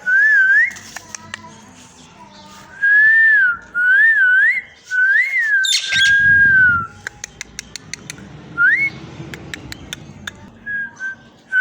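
A parrot whistling a series of short, wavy rising-and-falling phrases, one after another, with light clicking in the pauses.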